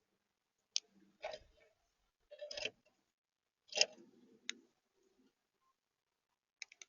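Irregular sharp taps and knocks on a bird feeder, typical of birds pecking and moving about on it. There are five or six strikes, a few of them longer with a duller thud.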